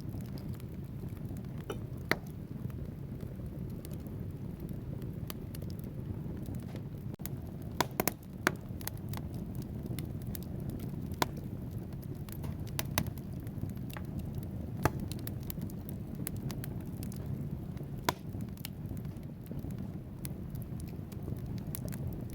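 Wood fire burning in a fireplace: a steady low rumble of flames with scattered sharp crackles and pops from the logs, a quick cluster of louder pops about eight seconds in.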